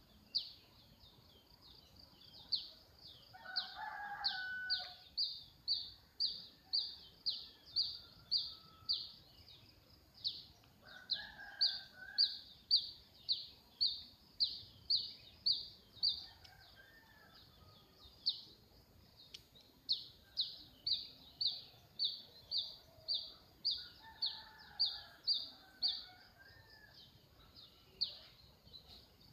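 A bird repeating a short, high chirp about two to three times a second, with a rooster crowing several times.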